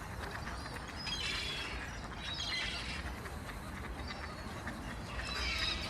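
Light clicking taps of birds on hard pond ice, mixed with clusters of short, high bird chirps that come in groups every second or so, over a low steady rumble.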